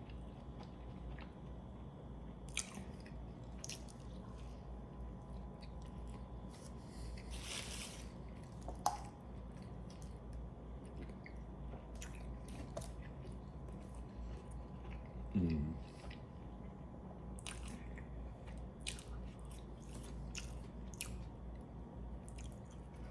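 Close-up chewing and biting of a Double Big Mac burger: wet, squishing mouth sounds with occasional crunches and small clicks. A brief low vocal sound comes about two thirds of the way through.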